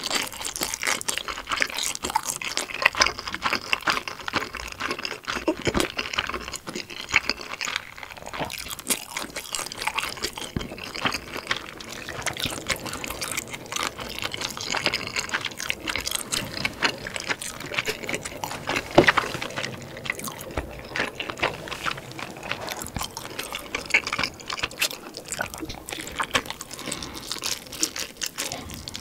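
Close-miked chewing and wet mouth sounds of a person eating soft dumplings, a dense, irregular run of small clicks.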